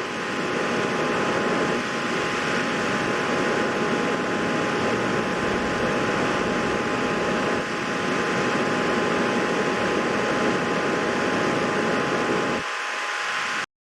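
A steady whooshing noise with two faint, steady whining tones. It loses its low rumble near the end and then cuts off abruptly.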